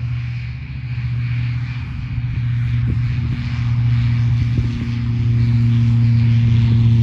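Light propeller aircraft's piston engine droning at a steady pitch, growing louder as it approaches.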